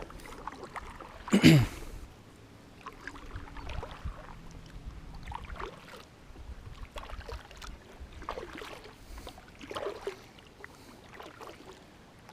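Kayak being paddled: water splashing and dripping off the paddle at strokes about a second and a half apart, with one louder sliding knock of falling pitch about a second and a half in.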